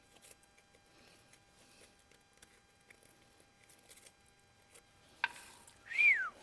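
Faint clicks and light scraping of metal parts being handled, then a sharp click and, near the end, one short squeak that rises and then drops in pitch.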